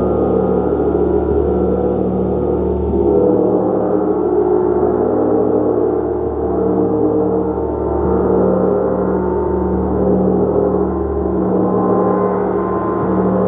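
Gong played continuously in a long, sustained wash of many overlapping ringing tones, swelling and ebbing slowly.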